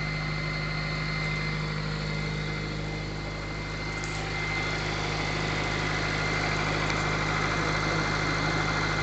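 A 1995 Integra GSR's B18C 1.8-litre VTEC four-cylinder idling steadily while it warms up after a very cold start. It gets a little louder about four seconds in.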